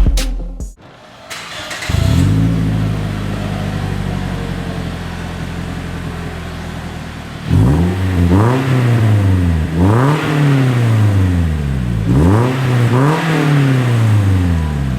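Scion xD's 1.8-litre four-cylinder engine heard through an aftermarket catback exhaust. It starts about two seconds in and idles steadily, then is revved three times from about halfway through, each rev rising and falling back to idle.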